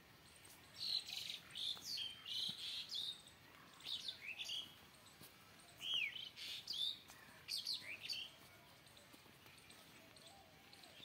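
Bird chirping: bouts of quick, high-pitched chirps and down-slurred notes, starting about a second in and stopping about eight seconds in.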